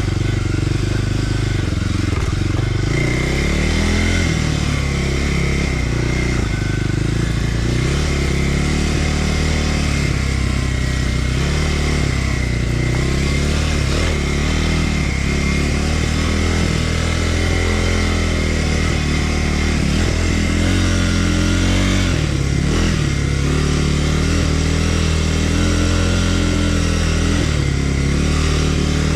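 Kawasaki KLX300R dirt bike's single-cylinder four-stroke engine running continuously on a downhill single-track ride, its revs rising and falling every few seconds as the throttle is worked.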